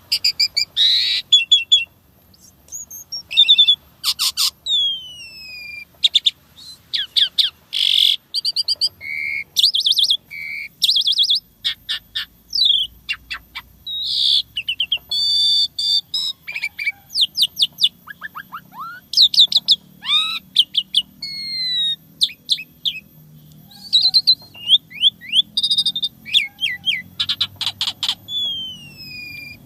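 Asian pied starling (jalak suren) singing a long, varied song. It runs quick strings of sharp repeated notes, falling whistles and short harsh chirps, with brief pauses between phrases.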